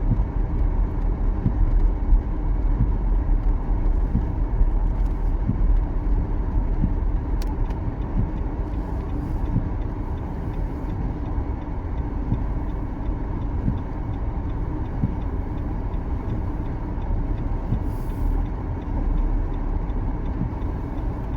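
Steady low rumble of a car's engine and tyres heard from inside the cabin as it drives slowly on snow-covered streets.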